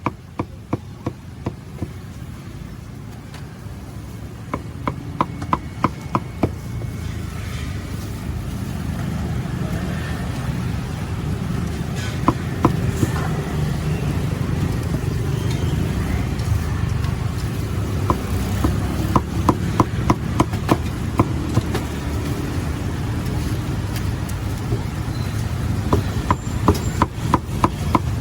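Bursts of quick chopping strokes on a cutting board, about three or four a second, stopping and starting several times over a steady low rumble of street traffic.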